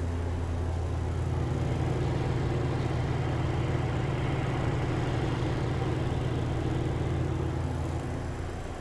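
Old Broan exhaust fan running with a steady rattly hum. About a second and a half in the hum shifts slightly higher and louder, and it eases back near the end.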